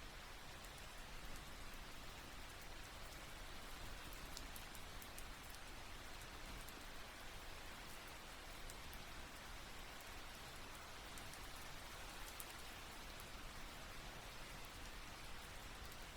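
Steady rain falling on a tent, a constant hiss with many small drops ticking through it.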